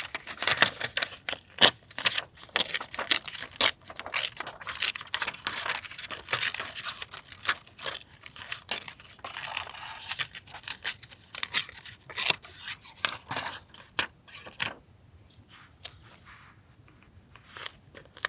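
Paper being torn and handled, with rustling and many small crisp clicks and taps. It thins out to a few light taps for a couple of seconds near the end.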